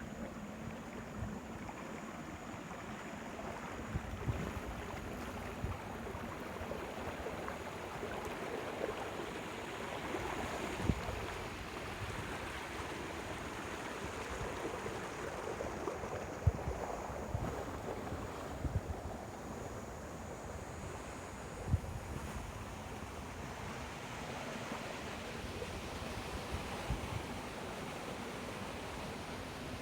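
Moving water rushing steadily, with a few short low thumps scattered through it.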